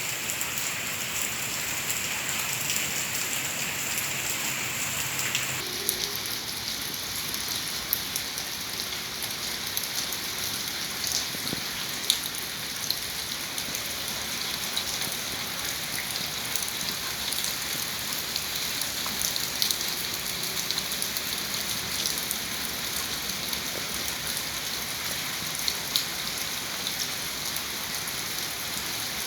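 Heavy rain pouring down steadily, with scattered drops and splashes ticking through the hiss.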